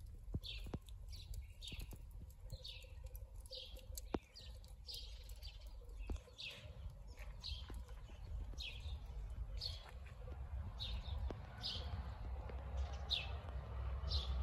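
A bird calling over and over: short, high chirps that drop in pitch, roughly one or two a second, with scattered sharp clicks and a low rumble underneath.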